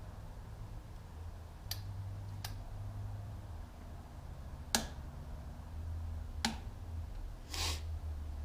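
Tools and metal parts being handled during an oil-filter job: four separate sharp clicks, the loudest about five seconds in, then a short scrape near the end, over a low steady hum.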